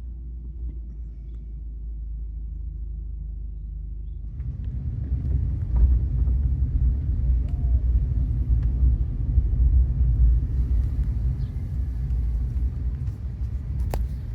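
Low road rumble of a car driving, growing louder about four seconds in.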